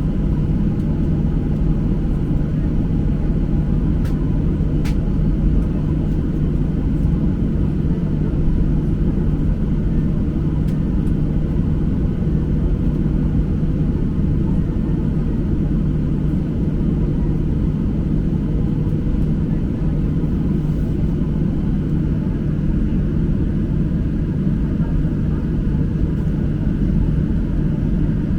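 Steady cabin noise of a Boeing 737-800 airliner: a loud, even rumble with a constant low hum underneath. There are a couple of faint clicks about four seconds in.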